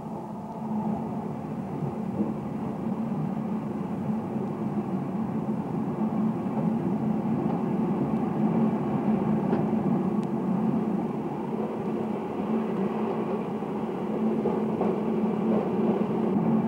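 Electric-hauled passenger train running on the rails: a steady rolling rumble with a low hum, and a couple of faint clicks about halfway through.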